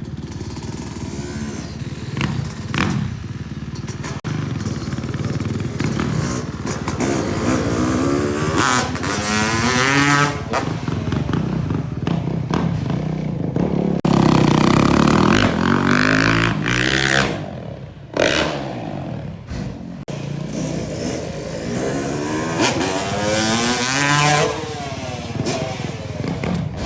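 Freestyle motocross stunt bike engines revving, the pitch climbing and dropping several times as the bikes speed up and back off, loudest about halfway through.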